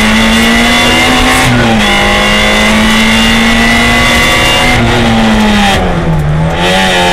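A Peugeot 106 N2 rally car's engine, heard from inside the cabin, running hard at high revs. Its pitch drops a step about a second and a half in, holds high, then dips near the end and climbs back.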